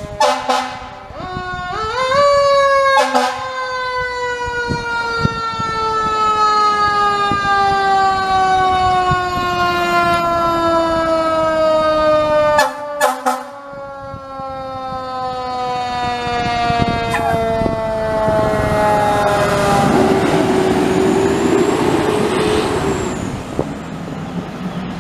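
Fire truck siren winding up, then falling slowly in pitch for most of twenty seconds, cut by a few short horn blasts. Near the end the siren fades into the truck's engine and road noise as it passes.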